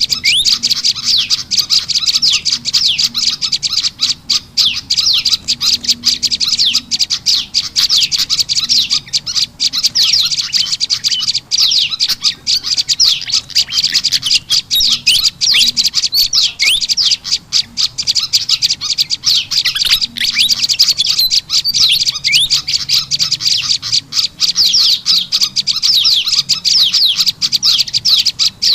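Dense, unbroken stream of rapid high chirps and quick trilled notes from a bird-lure recording of prenjak lumut calls mixed with kipasan (fantail) calls, played loud and looped to call small wild birds in.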